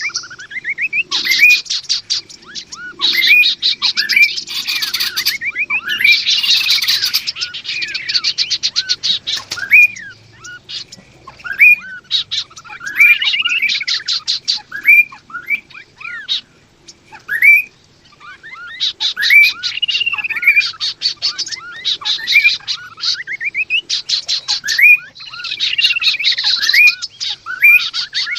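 Male and female kaso-kaso birds calling: bursts of fast, dry rattling trills a second or two long, mixed with short arched chirping notes, going on in waves with brief pauses between.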